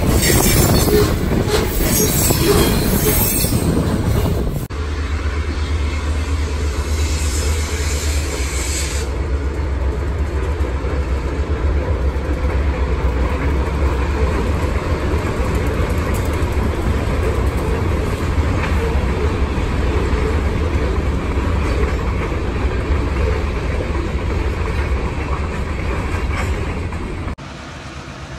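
Freight cars rolling past close by, wheels clattering and squealing on the rails. After a cut about five seconds in, a freight train is heard from farther off: a steady low rumble as a diesel locomotive hauls its cars along.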